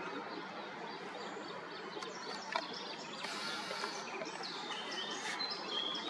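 Small birds singing and chirping, with quick high notes and short whistles starting about two seconds in, over a steady outdoor background noise.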